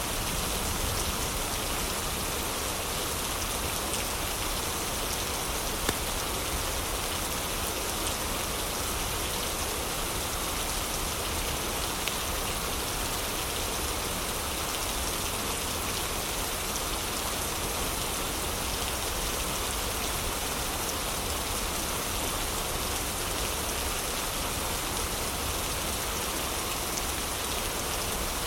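Heavy rain falling steadily, a dense even hiss of drops on surfaces, with a couple of faint single pops about six and twelve seconds in.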